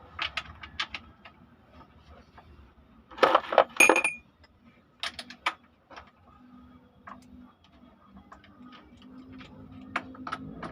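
Metal tools and engine parts clinking and clanking against each other, with scattered light clicks and a loud cluster of metallic clanks, one briefly ringing, about three to four seconds in.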